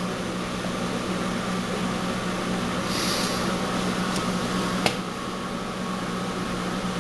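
A steady low mechanical hum with no rhythm to it, a single sharp click about five seconds in, and a brief hiss around three seconds.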